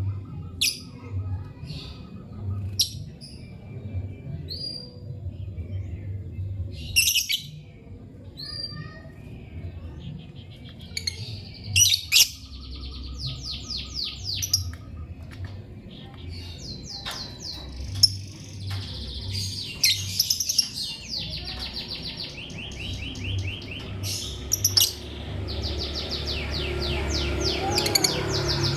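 Lovebirds chirping, over a low steady rumble. Sharp single chirps come first; from about ten seconds in, long rapid chattering runs of high chirps follow.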